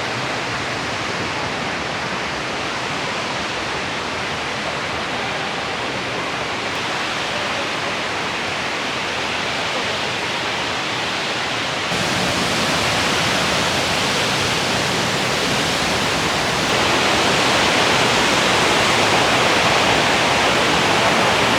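Cane Creek Cascades, rushing white water running high after heavy rain, a steady full rush of water that grows louder in two steps, about twelve seconds in and again near seventeen seconds.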